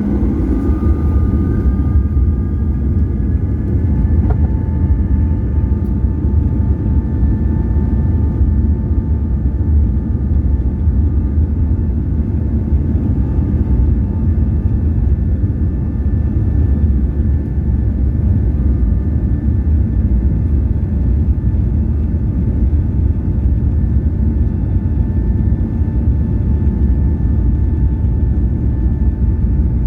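Boeing 737-800's CFM56-7B turbofan engines running at high take-off thrust, heard from inside the cabin: a loud, steady low rumble with a few steady whining fan tones above it. One whine rises in pitch over the first few seconds, then holds.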